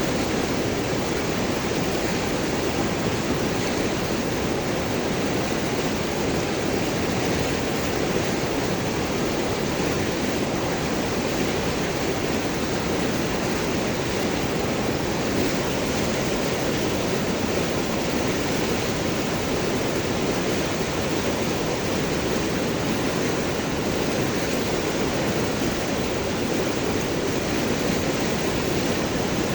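River water rushing and gurgling over large rocks, a steady, even flow.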